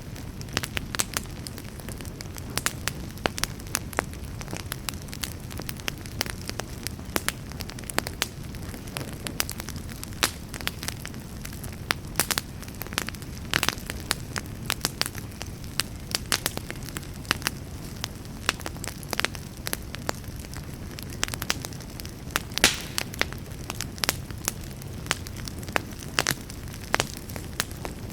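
Wood fire burning in a fireplace: a steady low rumble of flame with dense irregular crackling and snapping, and a few louder pops.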